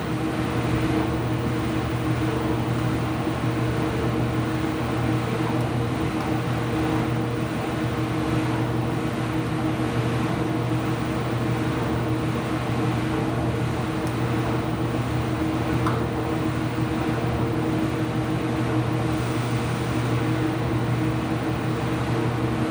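Ipso washing machine running mid-cycle, a steady motor hum with no change in pace.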